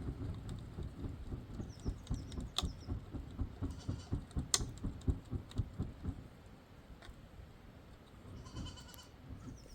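A flock of sheep and goats: irregular low thuds from the animals moving for the first several seconds, with a few sharp clicks, and a faint bleat near the end.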